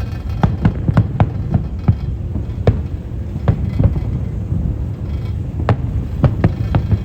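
Fireworks bursting overhead: a dense, irregular run of sharp bangs, sometimes several a second, over a continuous low booming rumble.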